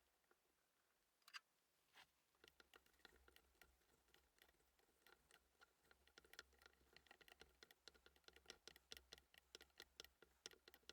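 Faint, irregular small clicks and taps, sparse at first and coming quickly and densely from about two seconds in, over a faint low hum.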